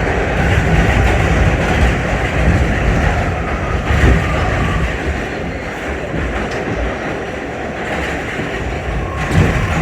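Interior running noise of an R68 subway car in motion: a steady low rumble with wheels clattering over the rail joints, and a louder knock about four seconds in and again near the end.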